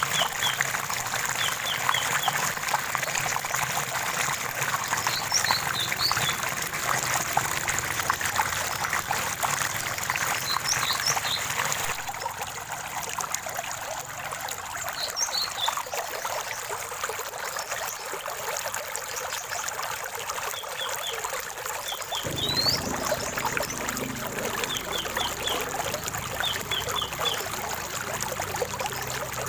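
Small stream trickling and splashing steadily over stones, with birds calling in short runs of quick, high chirps now and then. The water sound changes abruptly twice, at about 12 and 22 seconds in.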